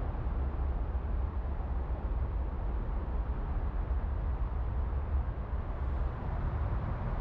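Oldsmobile 215 cubic-inch aluminum V8 in a 1955 Austin-Healey 100 BN1, idling steadily with a low rumble.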